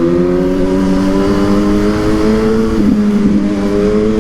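Suzuki GSX-S1000's inline-four engine through a Yoshimura exhaust, accelerating with its pitch slowly rising. It shifts up once about three seconds in, then pulls again.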